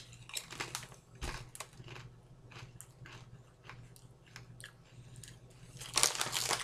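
Crunching bites and chewing of a crisp Popcorners popped-corn chip, a run of sharp crackles. Near the end comes a louder crinkling of the chip bag being handled.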